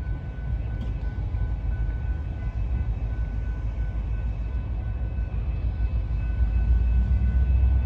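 Approaching freight train, still out of sight: a low rumble that grows steadily louder over the last couple of seconds.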